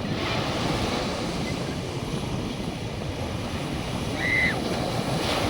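North Sea surf washing steadily onto the beach, with wind buffeting the microphone. A short high call sounds once about four seconds in.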